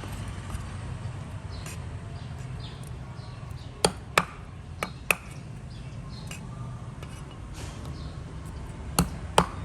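Sharp light clicks or knocks, like hard objects striking each other: a pair about four seconds in, two more about a second later, and another pair near the end, over a steady low hum.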